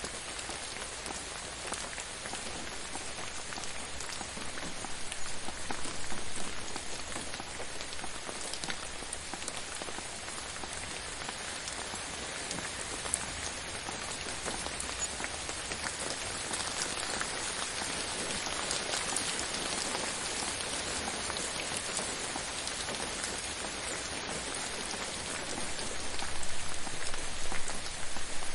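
Steady gentle rain falling, with many individual drops pattering on a surface. It swells a little louder briefly about five seconds in and again near the end.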